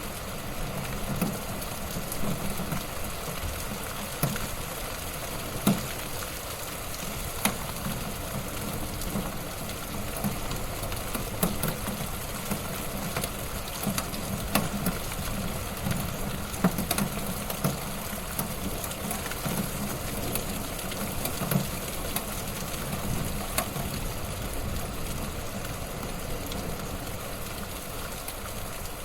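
Wood fire burning in a fireplace, a steady crackling hiss with irregular sharp pops every second or so.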